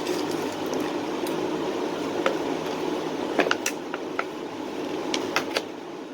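Steady mechanical hum, like a fan running, with a scattered series of light clicks and taps from small parts being handled.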